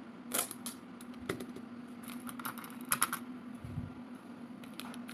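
Sticky tape and paper being handled while tape is stuck along the edges of a paper squishy: scattered, irregular crackling clicks over a steady low hum.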